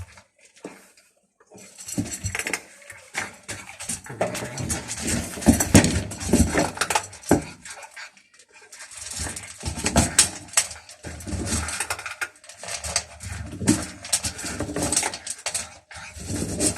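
Hungry stray cats eating, with many short clicks and clinks of food dishes scraping and knocking, and animal sounds among them.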